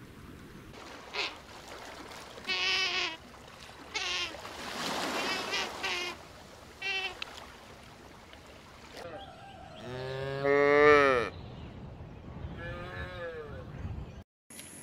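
Several short, high, wavering squeals from a sea otter, followed by a cow mooing twice: first one long, loud moo, then a shorter one.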